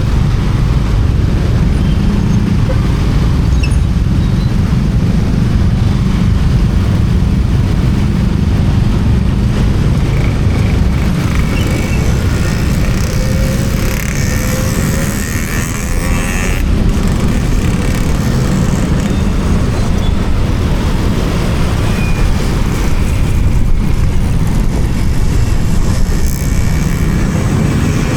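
Motorcycle under way: steady road and engine noise with wind rushing over the action camera's microphone, easing briefly about halfway through.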